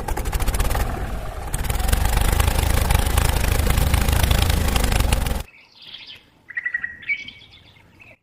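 A fast, loud mechanical rattle of rapid clicks, like a small motor or power tool running, cuts off suddenly about five and a half seconds in. A few faint short chirps follow.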